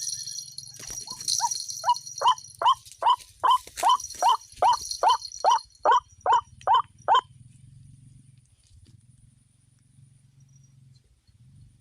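White-breasted waterhen calling: a fast run of about twenty loud, even, short 'kwak' notes, about three a second, that stops abruptly about seven seconds in.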